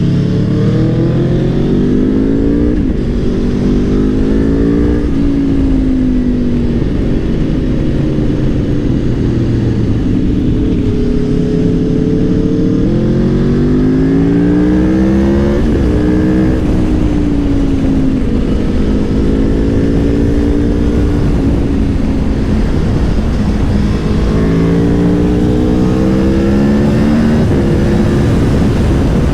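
Aprilia Tuono V4 Factory's V4 engine heard from on board, revving up through the gears with the pitch rising and dropping back at each change, and easing off between pulls, over steady wind rumble.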